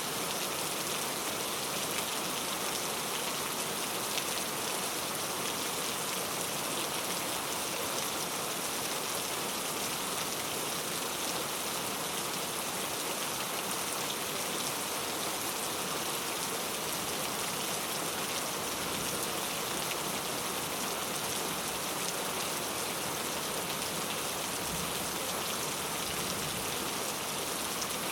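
Steady heavy rain falling, an even hiss of many drops with no lulls.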